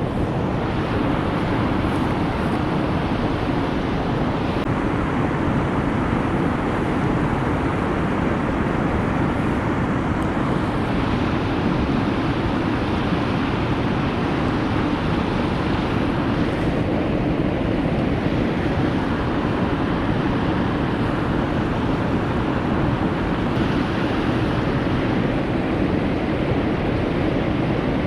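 Steady rushing noise of a wood fire burning in a fire pit, with no pops or crackles standing out.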